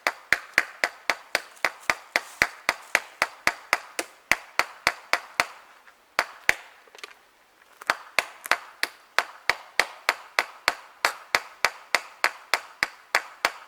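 Small hammer driving a wide-headed nail into a dead tree trunk, about four to five quick sharp strikes a second, with a pause of about two seconds halfway through.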